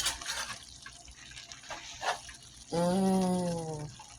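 Metal spatula and knife clicking and scraping against a pot as seasoned chicken is crushed. Past the middle comes a steady pitched tone, slightly falling and about a second long, which is the loudest sound.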